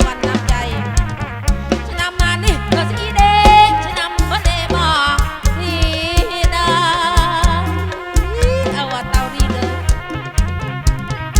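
Live kantrum music played loud through a PA system: a wavering melody line with wide vibrato over a steady drum beat and heavy bass.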